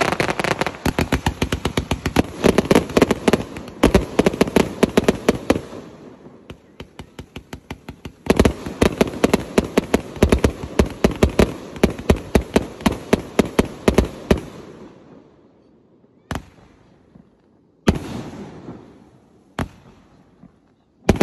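A 288-shot fireworks cake firing in rapid volleys of shots, several a second, with a quieter stretch about six seconds in. After about fifteen seconds it thins out to single bangs a second or two apart.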